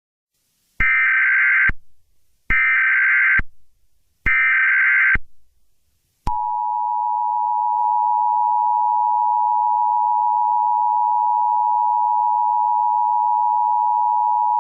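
Emergency Alert System header tones: three short, harsh digital data bursts of about a second each, evenly spaced, followed about six seconds in by the steady two-tone EAS attention signal, which holds for about eight seconds.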